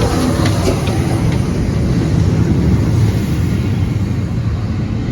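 A train passing at speed close by: a loud, steady rumble and rush of wheels on rail that eases slightly near the end.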